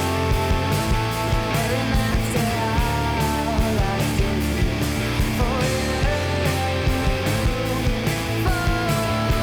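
Rock band music: drums keeping a steady beat under sustained guitar and bass notes and a melodic line.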